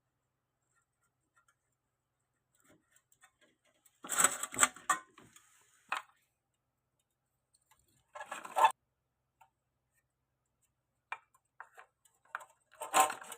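A few short bursts of clicking and clattering, as of tools and metal parts being handled, about four seconds in, about eight seconds in, and again near the end, with stillness between.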